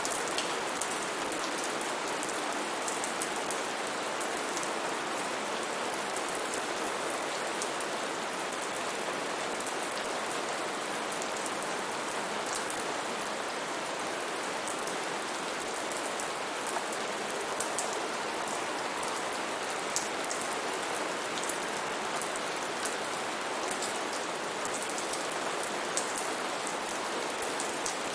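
Steady heavy rain, an even hiss with scattered close drops pattering on leaves and surfaces.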